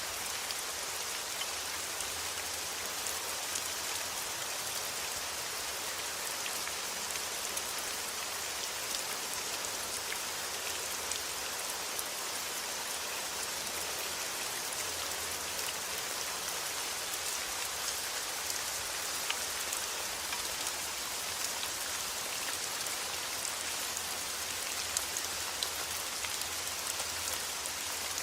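Steady rain: an even hiss of rainfall with scattered drop ticks, constant throughout.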